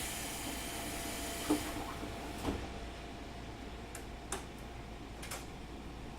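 Keikyu 2000 series train standing still: a burst of compressed-air hiss fades out under two seconds in. Then come several scattered clicks and knocks over a faint steady hum.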